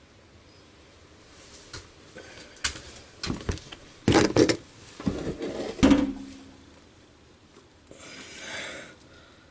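Tools and plumbing parts being handled: a run of knocks and clatters, the last ringing briefly, followed near the end by a short hiss.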